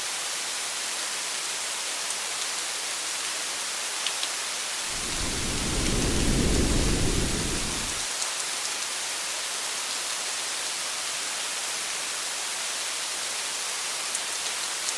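Steady rain hiss, with a few faint drop ticks, and a low rumble of thunder lasting about three seconds in the middle.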